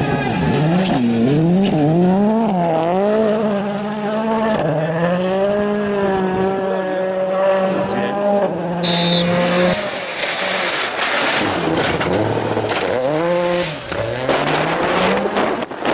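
Rally car engine revving hard, its pitch climbing and dropping again and again with gear changes, held at a steady high pitch for a few seconds in the middle, then rising and falling once more near the end.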